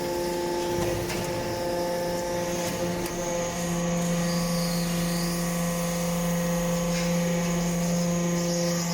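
Hydraulic briquetting press for metal chips running: a steady, even hum from its hydraulic pump and motor, with a few faint clicks.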